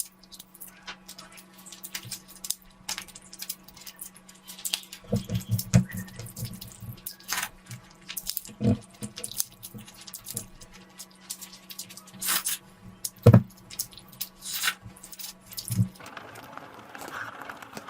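Close-miked wet eating sounds: chewing, mouth smacks and clicks at irregular intervals over a steady low hum. About two seconds before the end the hum stops and a hissier background takes over.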